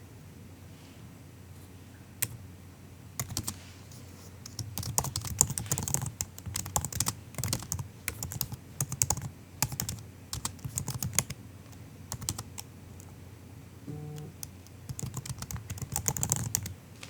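Soft typing on a MacBook keyboard: runs of fast keystrokes with short pauses between them, beginning a couple of seconds in.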